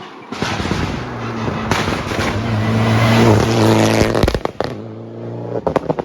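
Rally car engine at full throttle, its note climbing to a peak about three to four seconds in, then cutting off abruptly as the driver lifts. A string of sharp exhaust pops and crackles follows near the end.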